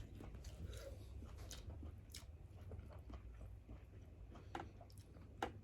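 Someone chewing grilled fish close to the microphone: faint wet mouth clicks and smacks, with two sharper clicks near the end, over a low steady hum.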